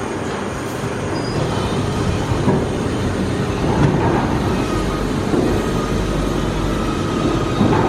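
Mark VII SoftWash XT in-bay automatic car wash running its cycle over a car: a steady, dense rumble of machinery and water.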